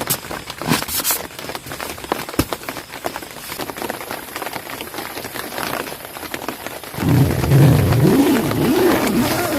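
Rain pattering, with many separate drops striking close by. About seven seconds in, a louder, lower sound with a wavering pitch joins the rain.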